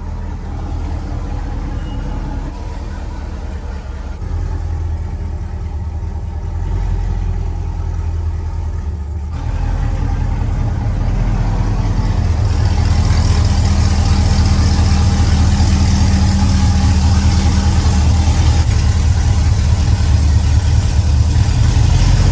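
Car engine running steadily with a deep low tone; it gets louder about nine seconds in, and a hiss joins it a few seconds later.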